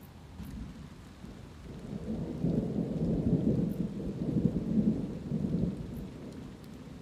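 Thunder rolling in a low rumble over steady light rain; the rumble swells about two seconds in and fades again near the end.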